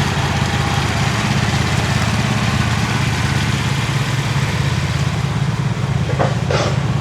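A small engine running steadily at an even, low pitch, with a short higher-pitched sound about six seconds in.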